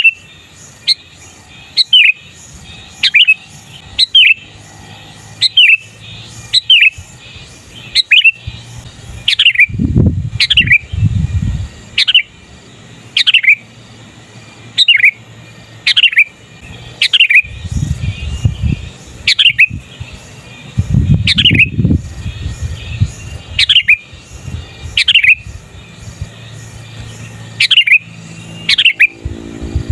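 Sooty-headed bulbul giving loud, sharp calls over and over, each a quick downward sweep, about one a second. Low rumbles come up a few times in between.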